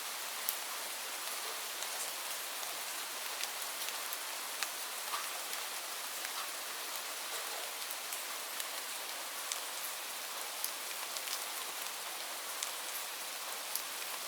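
Steady rain falling, a constant hiss with many individual drops ticking sharply and irregularly on a nearby surface.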